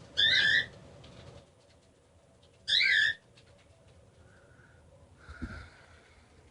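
Cockatiel giving two loud, short warbling chirps about two and a half seconds apart, then a couple of softer whistled notes, with a brief low thump near the end.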